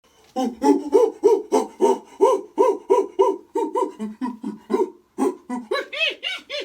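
Rapid monkey-style hooting, about three short arched hoots a second, climbing higher and brighter near the end like an excited ape call.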